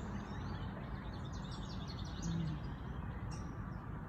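Small songbirds chirping and twittering in quick runs of short high notes over a steady low rushing background noise.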